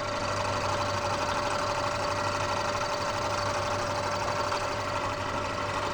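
Bridgeport milling machine running with its end mill taking a light climb-milling finishing pass of about a thousandth and a half; a steady machine sound with a fixed whine over dense cutting noise.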